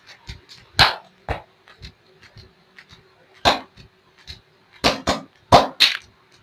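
Hands slapping and patting oiled skin during a foot and leg massage: irregular sharp slaps, with a quick run of four loud ones near the end.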